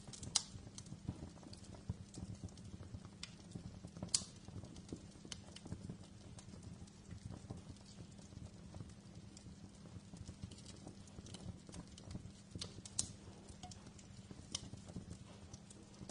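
Wood fire crackling in a fireplace: irregular sharp pops and snaps, the loudest about half a second in, about four seconds in and around thirteen seconds, over a steady low rumble of the burning.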